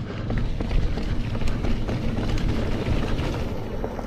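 Mountain bike rolling downhill on a dirt trail: a steady low rumble of tyres on the ground, with irregular rattles and knocks as the bike goes over bumps.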